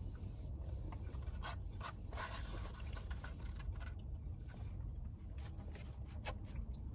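Quiet eating sounds: chewing and handling food, with scattered small clicks and rustles over a steady low hum.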